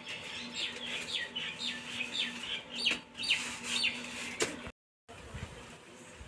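Birds chirping: a quick series of short, high calls, about two a second, which break off abruptly about four and a half seconds in.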